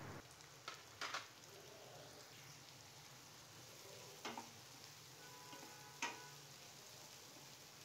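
Faint sizzling of chopped tomatoes and onions frying in oil in a nonstick kadhai, while a wooden spatula stirs them and knocks against the pan about four times.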